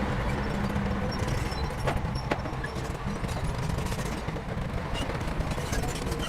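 Heavy earthmoving machinery running with a low rumble and a rough, rattling clatter, with two sharp knocks about two seconds in.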